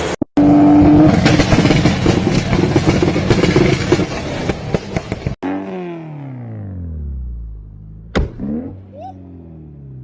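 Car engine held on a two-step launch limiter, the exhaust crackling and popping in rapid bursts. After a sudden cut, an engine's revs fall away in a long descending drone, and a sharp click comes about eight seconds in.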